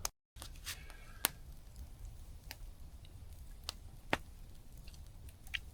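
Campfire crackling: a handful of sharp, scattered pops over a low, steady background.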